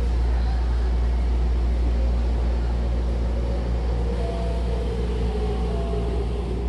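Hankyu commuter train standing at a platform with its doors open: a steady low hum from the car's equipment, with a faint whine slowly falling in pitch in the middle. Near the end the double doors begin sliding shut.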